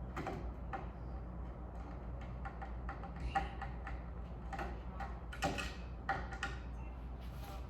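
Scattered light clicks and taps of screws and hardware being handled as a ceiling fan blade is screwed on, with a few sharper knocks, over a steady low hum.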